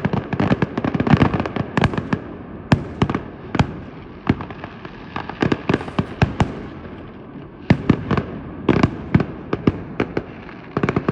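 Firecrackers going off in rapid, irregular strings of sharp pops and bangs. The pops come thickest in the first second or so and again around five to six and a half seconds in.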